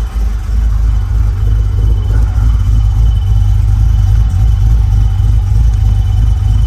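LS 408 stroker V8 with a stage 3 camshaft running with a loud, steady, choppy cammed rumble.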